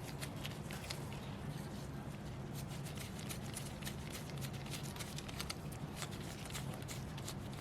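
Faint scattered clicks and light metallic ticks as rear drum brake shoes and their parts are handled and fitted, over a steady low hum.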